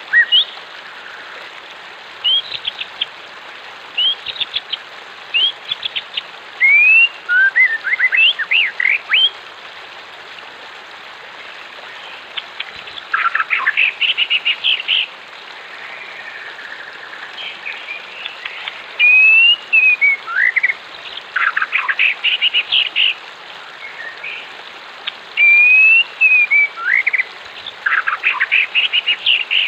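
Wild songbirds calling in repeated bursts of rapid chirps and short sliding whistled notes, over a steady rush of flowing water.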